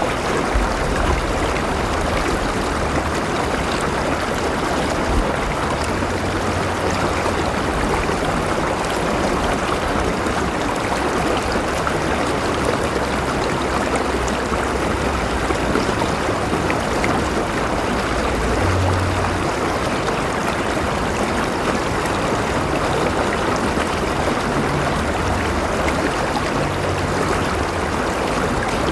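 River water flowing steadily over rocks, a continuous rushing with small gurgles and no break.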